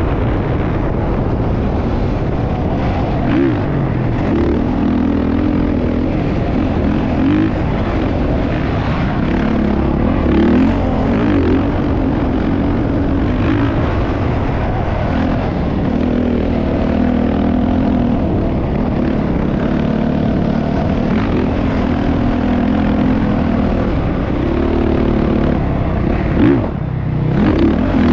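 Motocross bike engine running under throttle, its pitch rising and falling repeatedly as it revs up and eases off, with a brief dip near the end.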